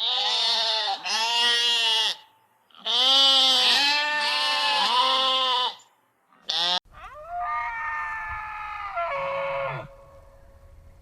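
Bleating goat-or-sheep-type livestock: a run of loud, wavering bleats in two groups, then a short call and a longer, steadier bleat near the end.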